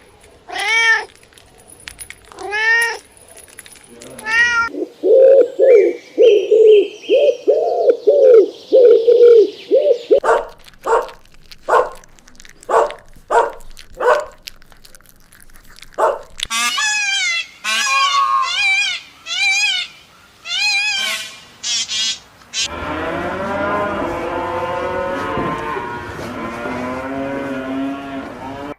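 A run of different animal calls, one kind after another: a few arching pitched calls at the start, then fast repeated lower calls, a string of short sharp clicks, higher wavering calls, and a dense chorus of many overlapping calls near the end.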